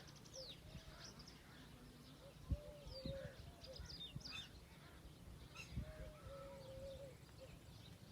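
Several birds calling outdoors: high quick chirps and trills from small birds over a lower call repeated in short arching notes. There are a couple of low thumps, about two and a half seconds in and again near six seconds.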